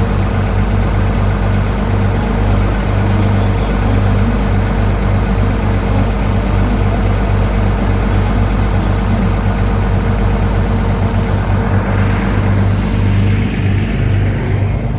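A vehicle engine idling steadily and loudly, with a deep, even hum.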